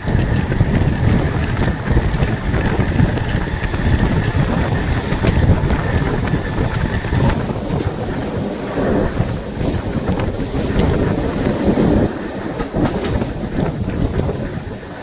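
Mumbai suburban local train running on the track, heard from its open doorway: a steady rumble and clatter of wheels on rail, with a faint steady whine in the first half. Wind hiss on the microphone comes in about halfway through.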